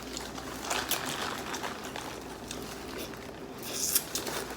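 Wet eating sounds from a sauce-covered seafood boil: scattered short smacks and clicks of chewing and handling the food, with a sharper click a little before the end.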